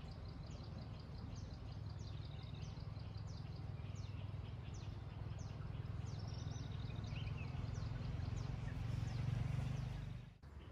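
Birds chirping, a string of short high notes that each slide downward, repeated about every half second, over a steady low hum that drops away near the end.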